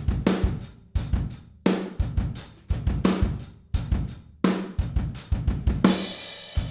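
Acoustic drum kit playing a steady groove, recorded through its full set of close, overhead and room microphones. Kick and hi-hat run under a snare backbeat about every second and a half, and a cymbal rings briefly near the end.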